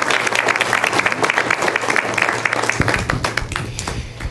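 Congregation applauding, many hands clapping fast, the clapping thinning out near the end as a low steady hum comes in.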